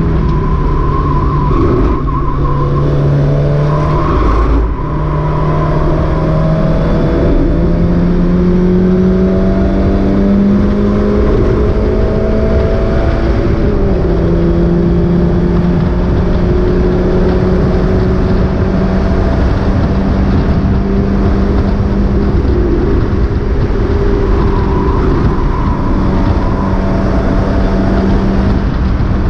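Race-prepared Mazda MX-5 engine heard onboard, pulling hard with its pitch slowly climbing over a haze of road and wind noise. The engine briefly lifts about five seconds in, and its pitch steps down at a gear change about fourteen seconds in, then climbs again.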